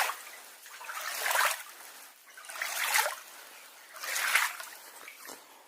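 Water sloshing and swishing in regular swells about every second and a half, as a small rubber dinghy is paddled through flooded tunnel water.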